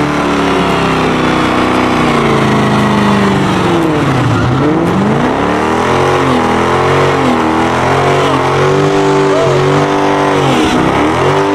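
Car engine revving hard, its pitch dropping low about four seconds in, then climbing and falling again several times, with tires squealing underneath throughout.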